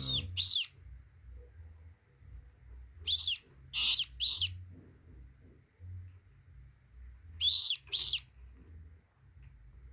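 Baby parrot chicks giving short, shrill calls in pairs and threes, with pauses of a few seconds between the groups.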